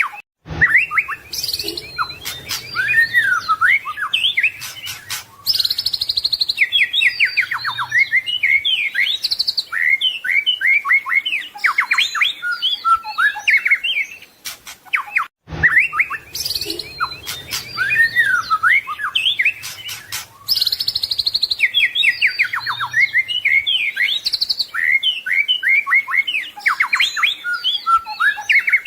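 White-rumped shama (murai batu) singing a fast, varied song of whistles, rapid trills and mimicked call notes, with a few sharp clicks among them. The same passage of about fifteen seconds plays twice, as in a looped training recording.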